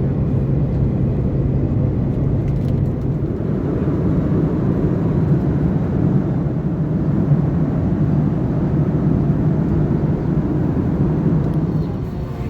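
Cabin noise of an Airbus A330-900neo: a steady low rumble and engine hum from its Rolls-Royce Trent 7000 engines. The rumble strengthens a few seconds in and eases just before the end.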